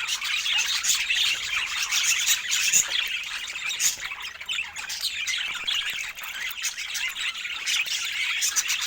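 Budgerigars chattering and squawking without pause, many quick chirps overlapping into a dense, busy warble.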